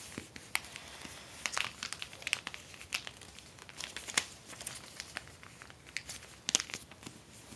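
A sheet of paper being handled and folded: irregular crinkles and crackles as it is creased.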